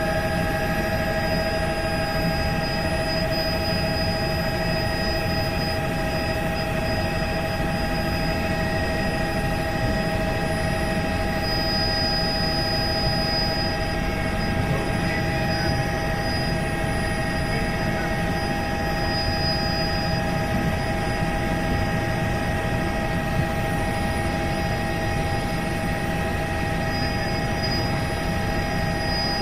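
Helicopter in flight: a steady noise of rotor and engine with several steady whining tones over it, unchanging throughout.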